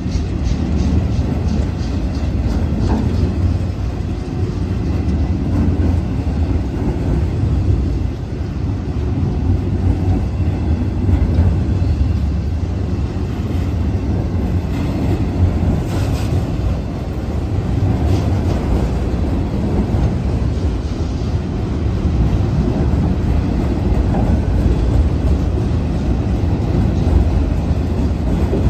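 Freight train of autorack cars rolling past: a steady rumble of steel wheels on the rails, with faint regular clicks early on and a brief sharper clank about halfway through.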